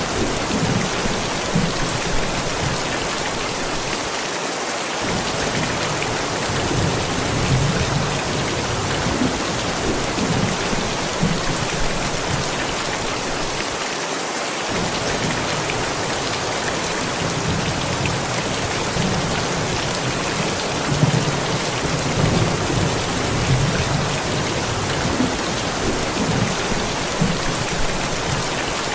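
Steady rain falling, with low rolls of thunder rumbling at irregular intervals.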